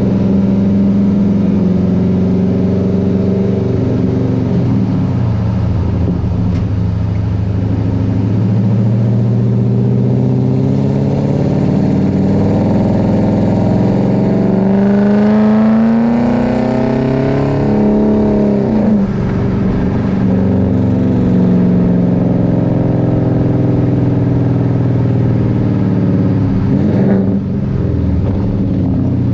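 2018 Chevrolet Silverado engine running through an equal-length exhaust, with a steady drone. About halfway through the exhaust note climbs in pitch as the truck accelerates, then drops back to a steady drone.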